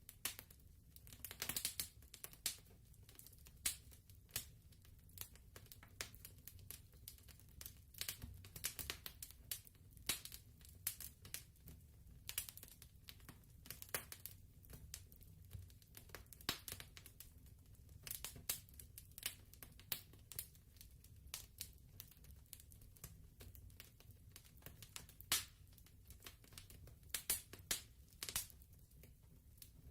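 Faint wood fire crackling, with irregular sharp pops and snaps over a low steady rumble.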